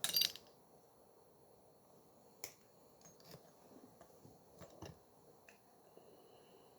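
A short, sharp crackling snap, then a handful of faint, scattered light clicks and taps: small-scale handling noise.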